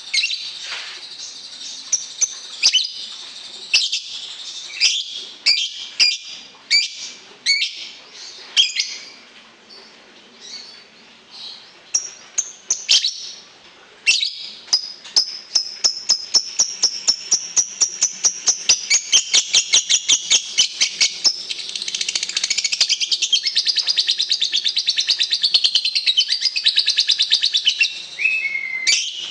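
A songbird singing: sharp, high chirps and whistled notes at first, then a fast trill of even notes from about halfway, running into continuous rapid warbling near the end.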